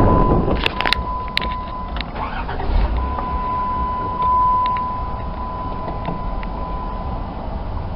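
Minivan engine idling with its serpentine belt snapped through, so the belt-driven accessories are not turning, a condition the owner credits for the engine making no noise. A steady thin tone sits over the low engine rumble, with a few sharp clicks about a second in.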